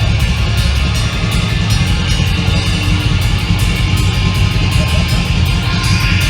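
Hardcore/emo band playing live: loud distorted electric guitars over a pounding drum kit.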